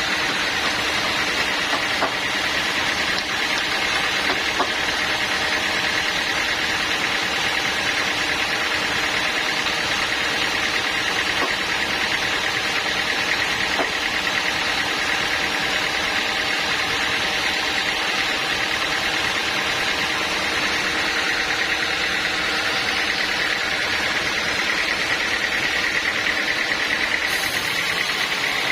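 Sawmill machinery running steadily: an engine with a constant high whine over it, and no pauses or changes in load.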